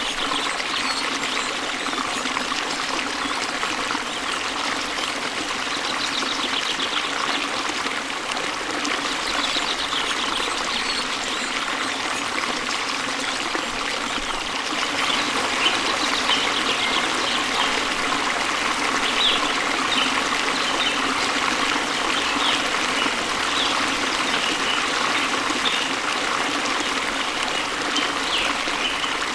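A stream babbling and trickling steadily, with short bird chirps heard over the running water.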